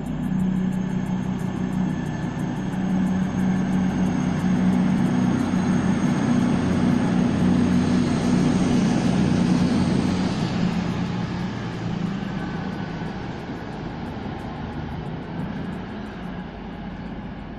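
Diesel passenger train running through the station: a steady low engine drone with the noise of the train, growing louder to a peak about ten seconds in and then fading away as it recedes. A thin high whine sounds above it and stops about ten seconds in.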